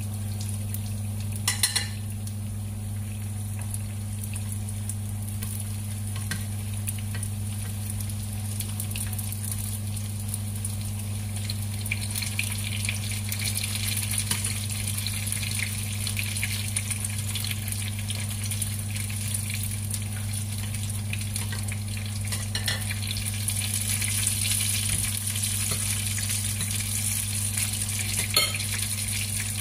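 Dumplings sizzling as they shallow-fry in oil in a frying pan, the sizzle growing louder in the second half, under a steady low hum. A couple of light knocks, one near the start and one near the end.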